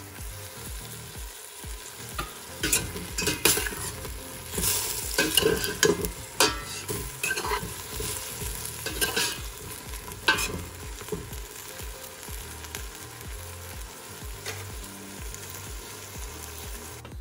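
Onions and carrots sizzling in a stainless steel pot, with a metal spoon scraping and clinking against the pot as they are stirred, mostly between about two and eleven seconds in.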